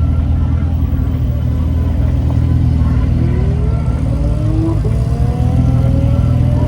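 Car engines running with a deep, steady rumble. From about three seconds in, one engine's note rises as it accelerates, dips briefly and climbs again just before five seconds, as with a gear change.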